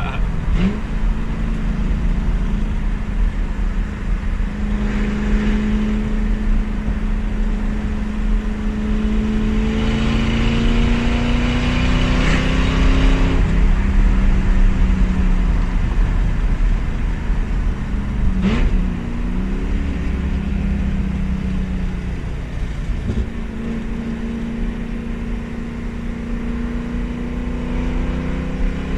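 Muffler-deleted 4.6-litre two-valve V8 of a New Edge Mustang GT running loud under load on the road, its pitch climbing steadily for about thirteen seconds, then dipping and recovering at gear changes about halfway through and again near the end.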